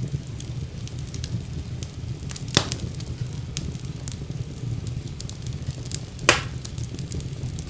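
Wood fire burning in a fireplace, with a steady low rumble and constant small crackles. Two louder pops come about a third of the way in and again near the end.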